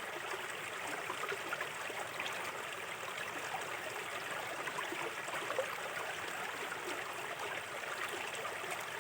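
Small river flowing over stones: a steady babble of running water with many small splashes and gurgles.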